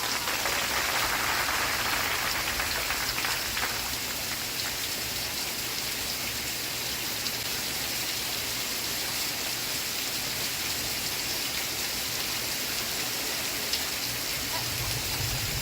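Steady rain falling, a continuous even hiss of drops with no break or change.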